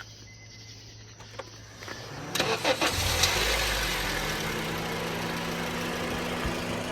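Car engine cranking briefly and catching about two and a half seconds in, then idling steadily.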